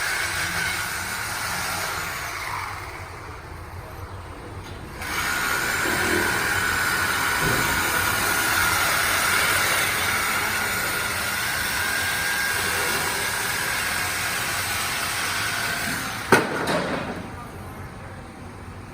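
Power cutting tool in an exhaust shop, running with a steady high whine and hiss while cutting through the old exhaust pipe. It gets louder about five seconds in and winds down after a sharp click near the end.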